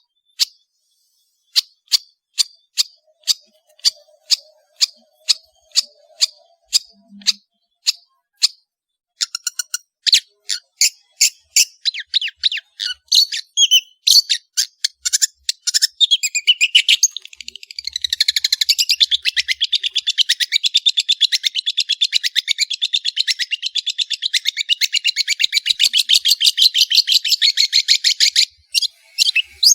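Long-tailed shrike (cendet) singing: sharp, evenly repeated calls about one and a half a second, speeding up about nine seconds in, then breaking into a fast continuous chatter from about sixteen seconds that stops briefly near the end.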